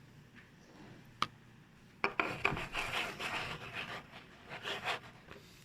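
Salt grains rasping and crackling. There is a single sharp click about a second in, then a dense, grainy rasping crackle lasting about three seconds.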